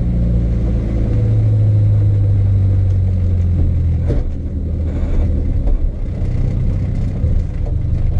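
Renault Clio 172's 2.0-litre four-cylinder engine heard inside the stripped-out cabin, running at steady revs. About four seconds in the engine note drops away and turns uneven as the throttle comes off, then steadies again near the end.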